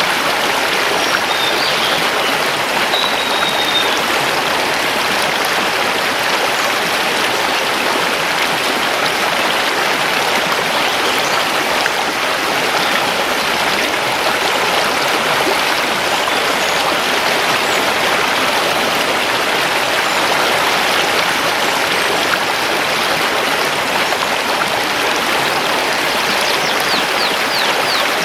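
Mountain river rushing over stones in a steady, even rush of water. Faint high bird notes are heard in the first few seconds and again near the end.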